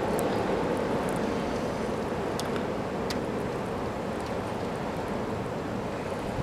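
Snowstorm wind blowing outside in a steady rush, with a few faint ticks over it.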